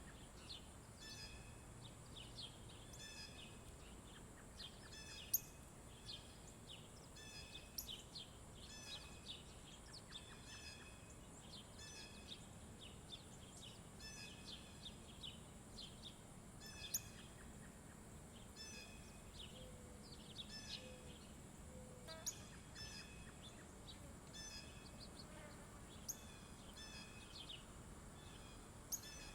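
Small birds at a feeder chirping again and again in short repeated calls, over a steady high-pitched background tone. A few sharp clicks stand out, and about two-thirds of the way in there is a short series of low whistled notes.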